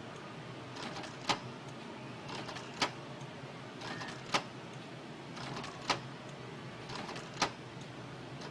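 Canon G2000 inkjet printer working: a short whir, then a sharp click, repeating about every one and a half seconds, five times.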